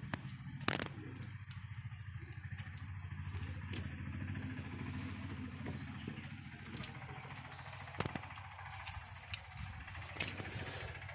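Birds chirping in short, high calls that come back every second or so, over a low steady rumble, with a couple of sharp knocks, one near the start and one later on.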